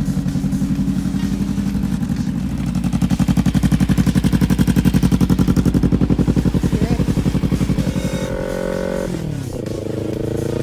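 Motorcycle engine running under way with a steady pulsing note; about nine seconds in the revs drop sharply and then climb again.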